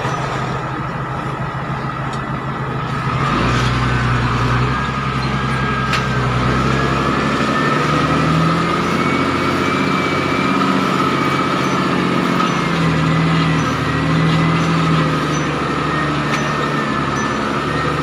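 MTZ-1221 tractor's six-cylinder diesel engine running steadily with a constant high whine, getting louder and heavier about three seconds in as it takes up the load of pulling a cultivator in a working gear.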